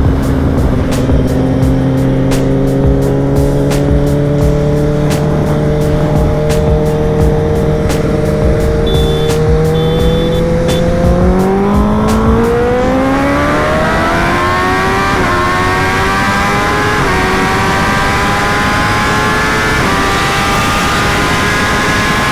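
Sport bike engine running steadily in a roll, then going to full throttle about 11 seconds in. Its pitch climbs steeply and rises in steps as the rider upshifts about three times, with wind rush building as speed climbs.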